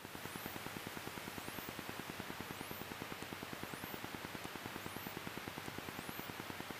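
Faint steady hiss with a fast, even pulsing underneath: the Cessna 172's engine and propeller in cruise, heard only faintly through the cockpit intercom audio.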